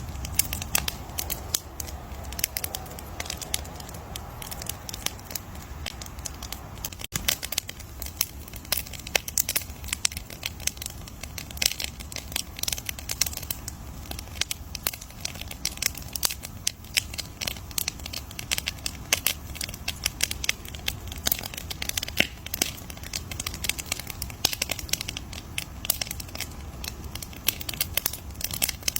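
Wood campfire crackling: dense, irregular pops and snaps over a steady low rumble, with a brief break in the sound about seven seconds in.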